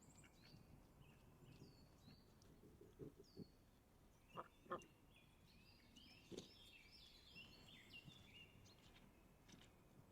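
Small birds calling faintly outdoors: short downward-sliding chirps, then a quick run of chattering notes in the middle. A few soft knocks sound around the middle.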